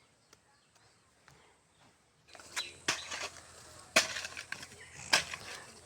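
Soil being pressed down around a newly planted coconut seedling: a few sharp knocks and scuffs, the loudest about four seconds in, after two seconds of near silence.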